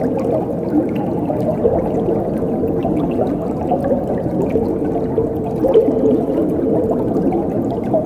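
Flowing water gurgling and burbling steadily over stones.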